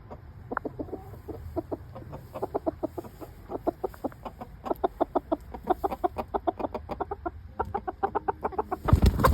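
Chickens clucking: many short, repeated clucks, several a second, from a small flock. A loud noise starts near the end.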